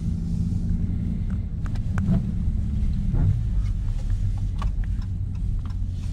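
2017 Dodge Charger Scat Pack's 6.4-litre HEMI V8 drone heard from inside the cabin while driving, swelling briefly about two seconds in, with scattered light clicks.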